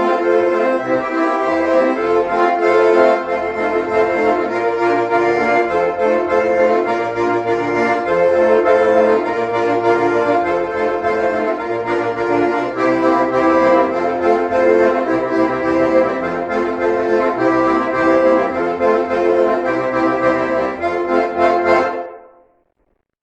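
Two bayans (Russian button accordions) playing a Russian folk dance tune in duet, stopping about 22 seconds in.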